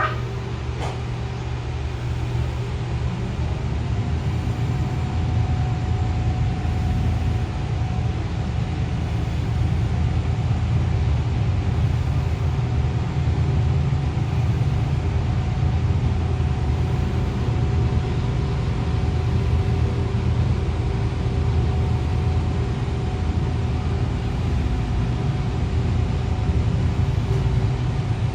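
Steady low rumble of a public transport vehicle under way, heard from inside the passenger compartment, with a faint steady whine over it.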